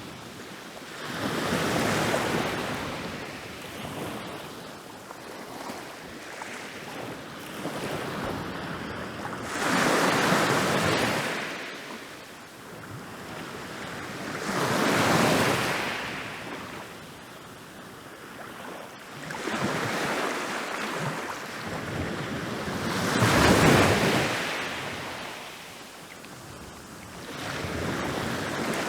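Ocean waves rolling in and crashing on a beach: a wave breaks every few seconds, each surge swelling and washing back, with the loudest crash about three-quarters of the way through.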